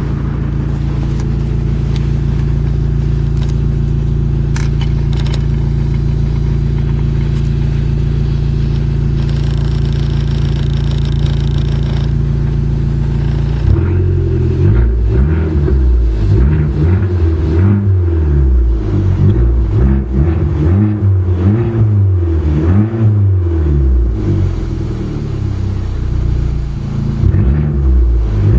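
Fiat Abarth's engine idling steadily, then, from about halfway through, revved up and down again and again in quick blips.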